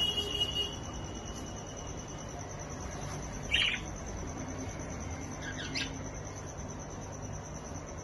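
Pet budgerigars calling: a thin held note fading out early, then a few short chirps and quick sliding calls midway, over a steady low hum.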